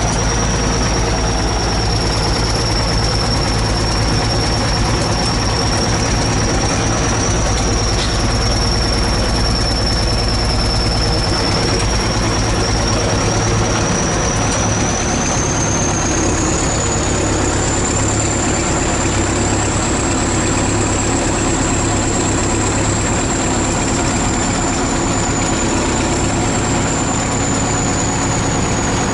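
ChTZ T-170 bulldozer's diesel engine running steadily, with a thin high whine above it that climbs in pitch a little past halfway.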